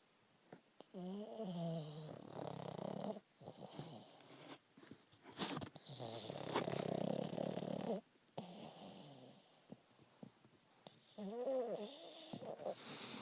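A pug snoring loudly in its sleep: three long snoring breaths, the middle one the longest and loudest, the first and last with a wavering, whistling tone.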